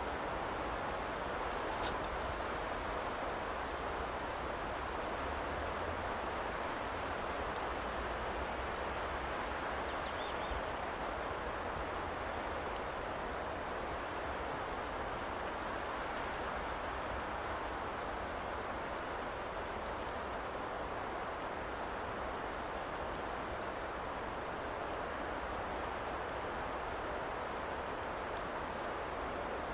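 Steady, even ambient noise with faint high ticks scattered through it and one brief high chirp about ten seconds in.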